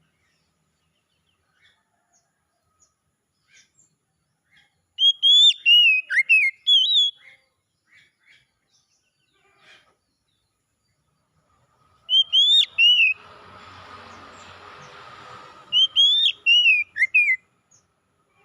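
Oriental magpie-robin singing three short phrases of loud, sliding whistles, with faint short chirps between them. A steady hiss runs for a few seconds between the second and third phrases.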